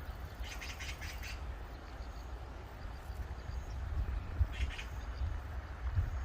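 Mallard ducks quacking in quick series: a run of about five quacks about half a second in, and a shorter run a little after four seconds. A steady low rumble runs underneath.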